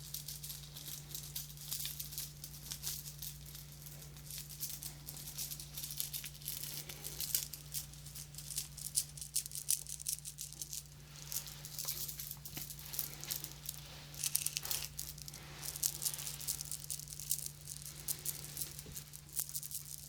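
Dense, crackly rustling and scratching right at a binaural microphone as an ASMR trigger, with no steady rhythm, over a steady low electrical hum.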